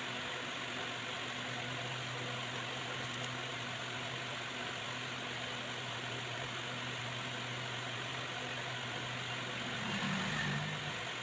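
Steady low hum over a constant hiss, with a brief louder low sound about ten seconds in.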